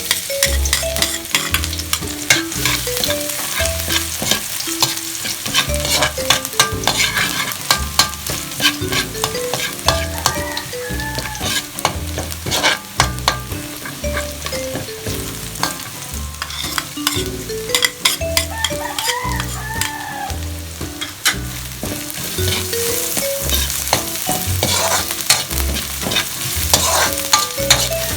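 Food frying in hot oil in a pan, sizzling steadily, with a spatula clicking and scraping against the pan as it is stirred.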